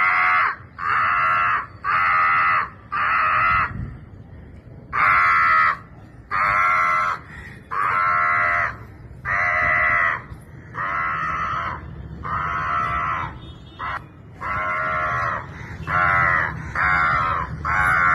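A woman imitating crow caws to call crows in: a long series of loud, harsh caws, roughly one a second, with a brief pause about four seconds in.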